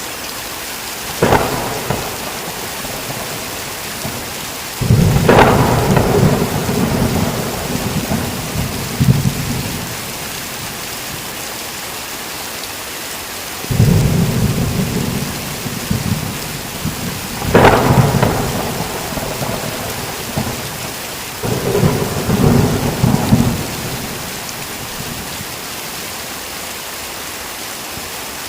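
Heavy rain falling steadily, with thunder: a sharp single crack about a second in, then three long rolling peals, each opening with a sharp crack and rumbling for several seconds before fading back into the rain.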